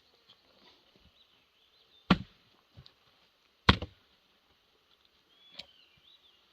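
Two heavy axe blows into a Douglas fir round, about a second and a half apart, then a lighter knock near the end.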